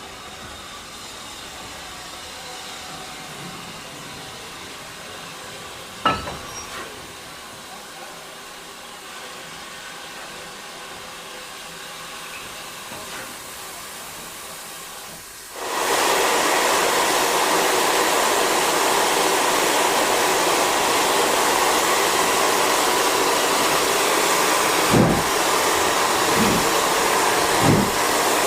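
Steam locomotive hissing steam: a loud, steady hiss comes on suddenly a little past halfway, with a few low beats near the end. Before it there is a quieter background with one sharp click about six seconds in.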